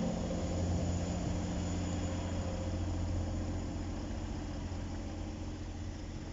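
Steady low diesel engine hum, slowly fading, just after a train has passed the level crossing.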